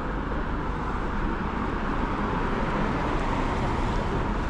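Steady street traffic noise: cars going by with a constant hiss and low rumble that swells slightly midway.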